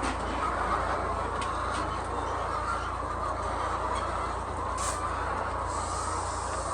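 A flock of chickens in a poultry house making a continuous overlapping murmur of clucking and calls, with a few faint clicks.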